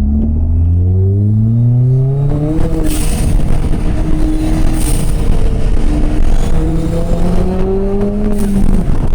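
Big-turbo Ford Fiesta ST's 1.6-litre EcoBoost four-cylinder, with a catless downpipe and 3-inch catback exhaust, accelerating hard: the engine note climbs for about two and a half seconds, settles, then climbs again and drops off near the end as the throttle is lifted or a gear is changed.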